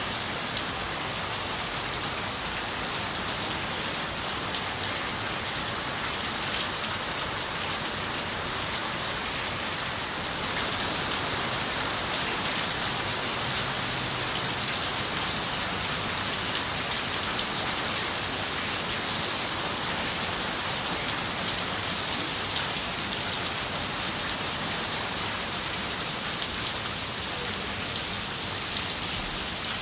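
Steady rain on a window, a dense even hiss with individual drops ticking through it. It grows slightly louder about ten seconds in.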